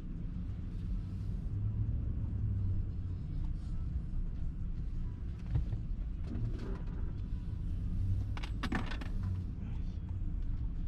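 Car's low, steady rumble heard from inside the cabin, with a short rattle or jingle about eight and a half seconds in.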